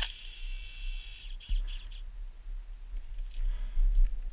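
High, thin chirping, like a small bird calling: a steady high note for about a second and a half, then three short chirps, over a low wind rumble on the microphone.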